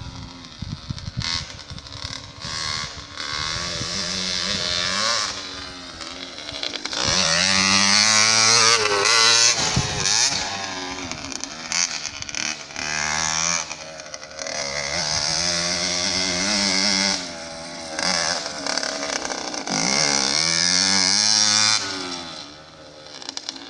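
Motocross motorcycle engine revving up and down over and over, its pitch climbing and dropping as the throttle is opened and closed, loudest about a third of the way in and again near the end.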